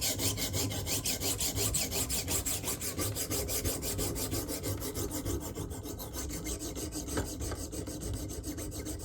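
Fillet knife edge stroked over the 140-grit stone of a KME guided sharpening system: a rapid, even scraping of quick back-and-forth strokes, several a second. This is the coarse-grit stage, raising a burr along the edge.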